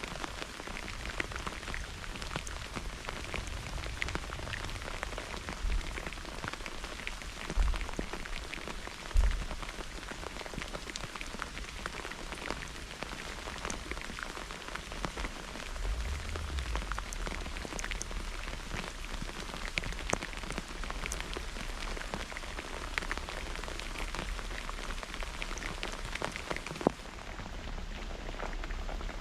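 Steady heavy rain, with many individual drops ticking sharply close by. A few brief low thumps stand out, around eight and nine seconds in and again past the halfway point.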